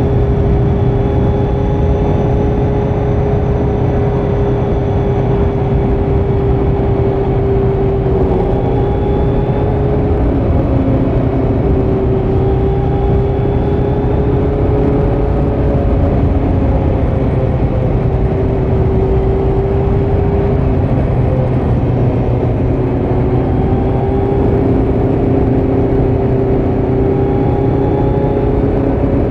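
2018 Kawasaki Z900's 948 cc inline-four through a Leo Vince muffler with no dB killer, running at a fairly steady cruise. The engine note holds nearly level with small rises and dips as the throttle eases on and off, over a steady low rumble of wind and road.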